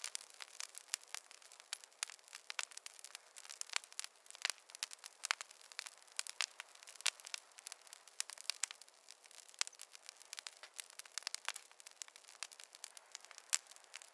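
Campfire crackling: a steady stream of small, irregular pops and snaps over a faint hiss.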